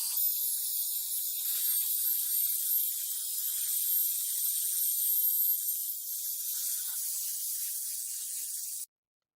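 A steady high-pitched hiss that cuts off abruptly near the end.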